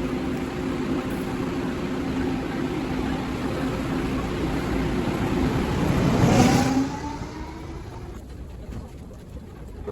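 Taiwan Railway train running through the station, heard sped up tenfold: a steady rumble with a drone, swelling to its loudest with a rising whine about six and a half seconds in, then falling away quickly to a quieter background.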